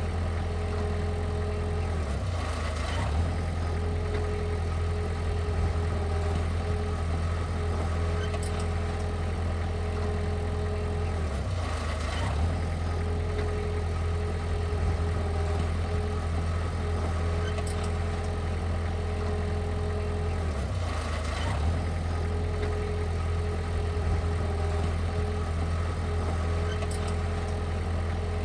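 Heavy machinery's diesel engine running steadily with a deep hum, briefly dipping about every nine seconds.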